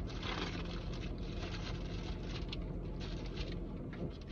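Steady low hum of a car's engine running while parked, under irregular rustling and crinkling as food packaging is handled.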